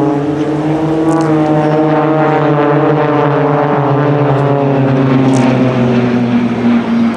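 Propeller aerobatic planes, Extra 300s flying in formation, with their engines and propellers droning steadily. The pitch rises a little at first, then slowly falls as the formation passes.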